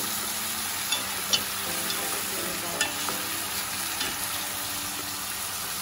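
Chicken pieces with carrots and onion sizzling steadily in a frying pan in soy sauce, with a few sharp clicks as the food is stirred.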